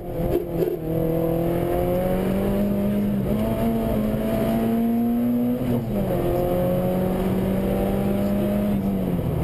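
Rally car engine running hard under load, heard from inside the cabin, its pitch climbing slowly as the car accelerates. The pitch drops sharply and briefly about six seconds in and again near the end, then picks back up.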